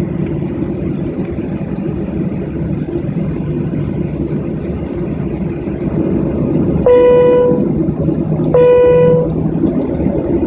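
Airliner cabin noise, a steady low hum from the engines and air conditioning before takeoff. About seven seconds in, two short cabin chimes ring a second and a half apart, the signal that a cabin announcement is about to begin.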